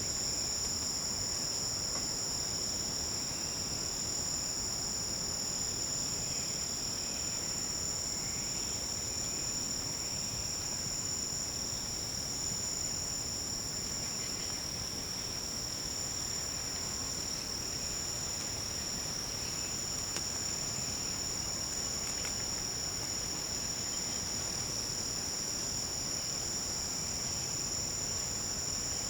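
Forest insect chorus: a dense, steady high-pitched trilling at several pitches at once, unbroken throughout, with faint scattered calls lower down.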